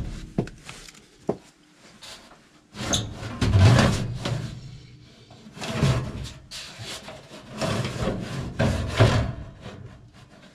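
Blower motor scraping and rubbing against its housing as it is tilted and slid into its mounting slots. Two short knocks come first, then three longer scraping stretches.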